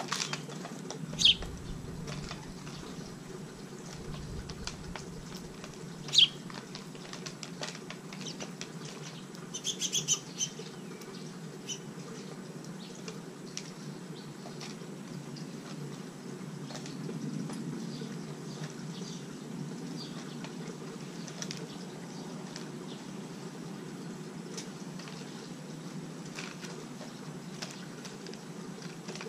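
House finches feeding at a plastic seed saucer: a patter of light pecking clicks and wing flutters. Two sharp louder sounds come about 1 s and 6 s in, and a quick run of short high chirps about ten seconds in, over a steady low hum.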